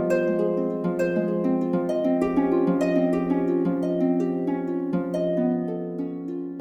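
Background music of plucked string notes in a gentle, flowing melody, with each note starting sharply and fading away.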